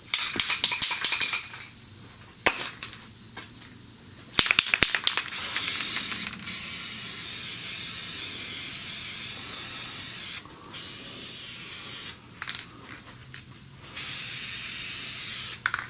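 A few short clattering bursts, then an aerosol spray can sprays in a long hiss of about five seconds, and later in a shorter one of about two seconds.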